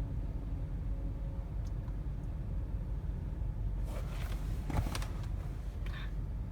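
Steady low rumble of an automatic car wash heard from inside the car, with a few short swishing hits about four to five seconds in and once more near the end.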